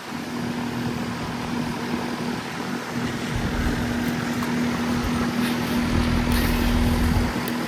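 Outdoor unit of a 2011 Bryant heat pump running: a steady hum from its Copeland scroll compressor under the rush of the condenser fan. A deeper low rumble joins about three seconds in.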